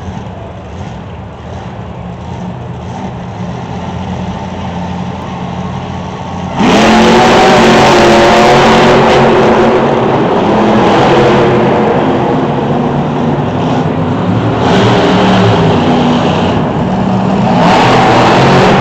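Monster truck V8 engines: a lower, steady running for the first six seconds or so, then suddenly much louder as a truck revs hard and accelerates, its pitch rising and falling at high revs.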